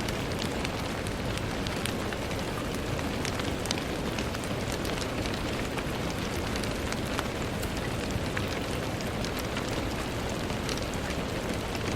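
Steady rain on a window, a continuous hiss with many scattered sharp ticks of single drops hitting the glass.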